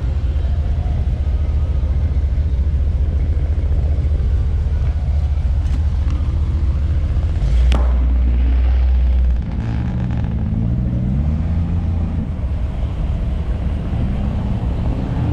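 Low, steady rumble of a car on the move. There is a sharp click about eight seconds in, after which it runs louder for about two seconds and then eases back.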